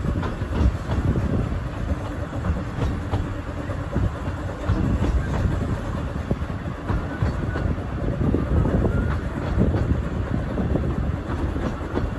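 Narrow-gauge steam railway carriage running along the track: a steady low rumble of the wheels with irregular clicks and clatter over the rail joints.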